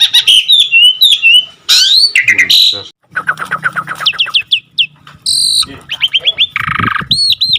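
A jalak (starling or myna) singing a varied song. It runs from clear whistles into quick falling chirps and a rapid string of notes, then a harsh rasp about seven seconds in, then a short run of arched whistles near the end.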